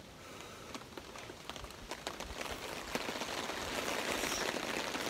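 Rain pattering with many small drop ticks, growing heavier from about two seconds in.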